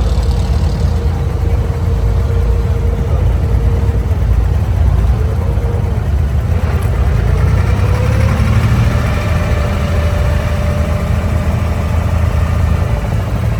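Diesel engine of an abra water taxi running steadily, a loud low drone with a faint wavering higher tone over it.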